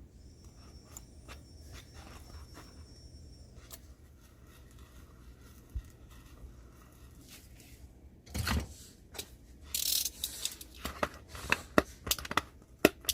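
Hand-tool and handling noises while working on a 10-inch woofer: scattered small clicks and taps, then from about eight seconds in louder scraping and rustling followed by a quick run of sharp clicks.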